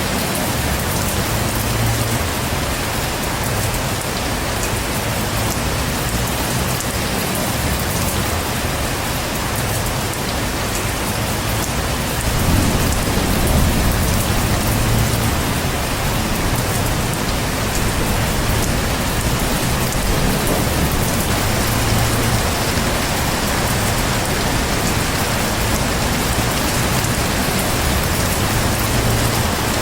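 Heavy rain falling steadily. About twelve seconds in, a low roll of thunder rumbles for a few seconds under the rain.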